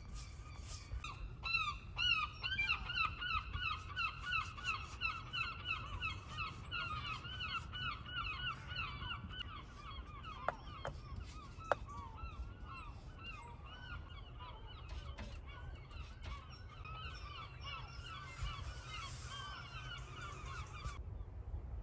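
Birds calling: a rapid run of repeated pitched calls, several a second, thick at first and thinning after about ten seconds, then cutting off abruptly near the end. A couple of faint clicks come about halfway.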